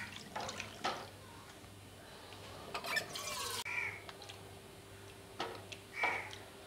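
A bird calling a few times in short harsh calls, the loudest about six seconds in, over the soft splash of water and milk being poured into a cooking pot, with a few light clicks.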